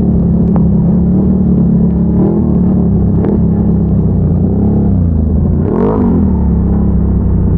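ATV V-twin engine running under load while riding, its revs swelling up and back down twice, about two seconds in and again around five to six seconds.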